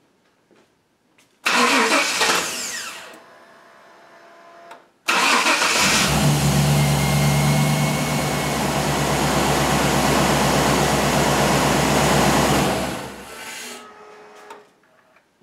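1998 Chevy 5.7 L V8 being started: a short loud burst about a second and a half in, then a few seconds later it cranks, catches quickly and runs steadily for about seven seconds before being shut off. The quick start comes with the new fuel pump holding its prime: the pressure no longer bleeds off through a stuck-open check valve.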